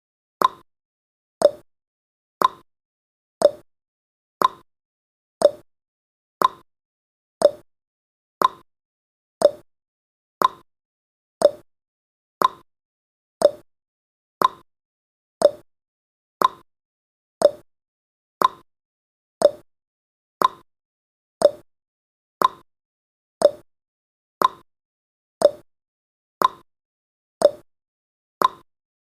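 Countdown timer's tick sound effect: one short, quickly fading tick every second, keeping an even beat.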